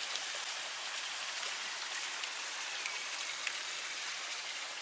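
Spring water running from spouts and splashing below, a steady hiss with small scattered drips and splashes.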